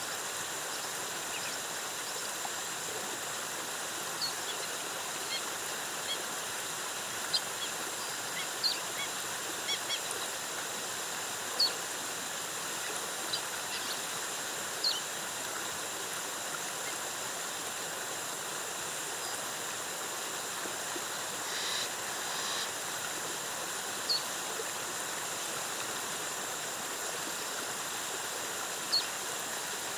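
Steady rushing of a jungle waterfall, with brief, high bird chirps scattered throughout.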